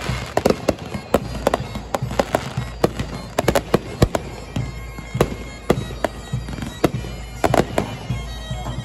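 Aerial fireworks going off in quick succession: a rapid, uneven string of sharp bangs and crackles over a low rumble.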